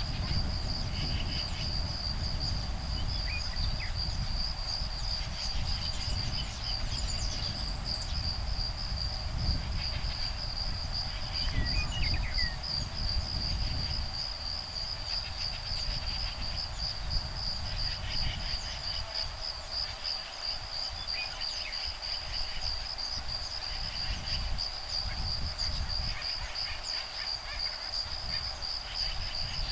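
A steady, high, pulsing insect trill, with patches of buzzy chatter coming and going and a few short bird chirps over it. Breeze rumbles low on the microphone.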